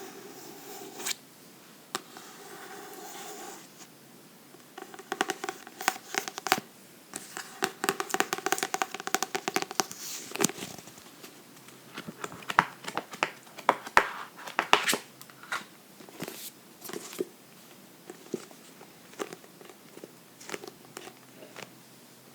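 Close-miked book sounds: rhythmic scratching on a book in stretches through the first ten seconds or so, then sharp taps and clicks scattered through the rest.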